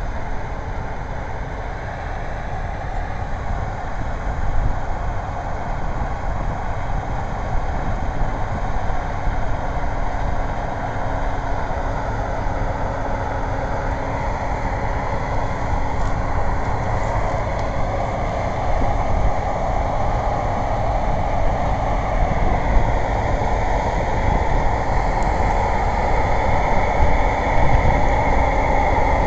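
Case combine harvester running, a steady mechanical drone with a held hum, growing gradually louder.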